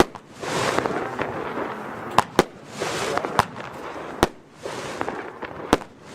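Category F2 consumer battery firework (cake) firing its shots. About six sharp reports come one to two seconds apart, with hissing swells between them.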